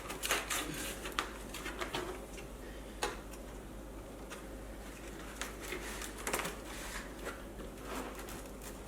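Scattered light clicks, knocks and scrapes of hand work on an electric unicycle's shell and wheel, with the sharpest click about three seconds in and a few more around six seconds.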